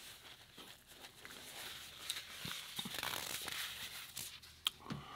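Quiet chewing and mouth noises close to the microphone: a soft hiss with a few small clicks, the sharpest near the end.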